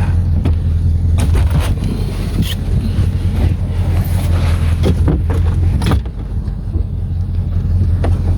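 An engine running with a steady low drone, with scattered knocks and clicks over it. The drone dips briefly about six seconds in.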